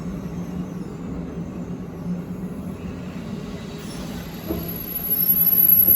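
Abukuma Express 8100 series electric train heard from on board, a steady low running hum. A high-pitched squeal starts near the end and grows louder.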